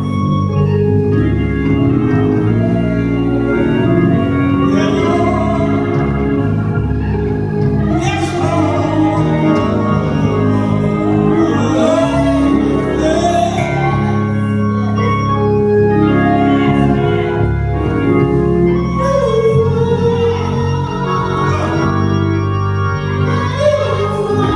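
Church organ playing held chords with a moving melody above them.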